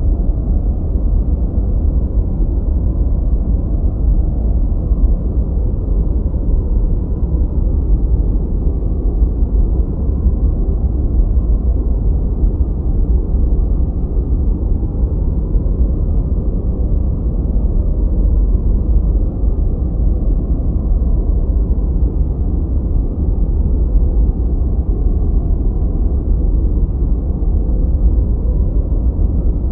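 Continuous, steady noise from a white-noise track, unchanging throughout. It sits low and muffled, with most of its weight in the deep end and no hiss at the top.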